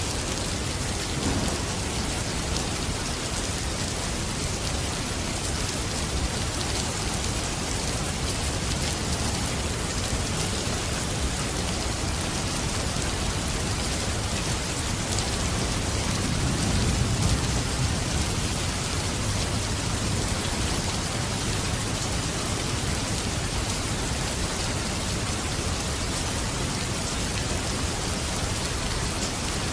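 Steady, heavy rain falling in a dense even hiss, with a low rumble of distant thunder swelling up about halfway through.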